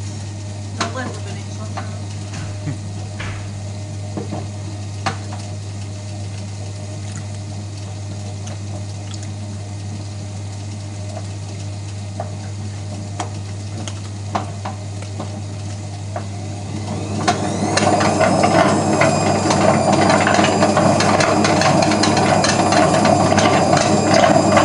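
Hotpoint Aquarius WMF520P washing machine with a hum and scattered knocks as the drum turns, then about 17 seconds in the spin speeds up with a rising whine and the machine breaks into a loud rattling, grinding racket. The racket is the sign of a broken drum spider letting the drum and bearings move about.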